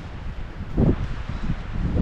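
Footsteps in fresh snow, soft crunching thuds about once a second, the loudest about a second in, with wind rumbling on the microphone.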